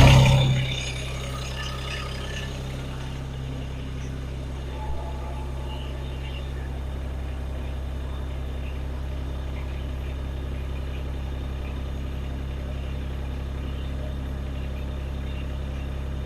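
Mahindra eMax 20 compact tractor's three-cylinder diesel engine idling steadily, settling to idle in the first half second after a louder burst.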